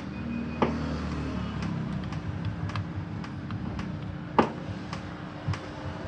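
Light scattered clicks and taps of hands handling a TV box and its plastic cover, with sharper knocks about half a second in, at about four and a half seconds and at five and a half seconds, over a steady low hum.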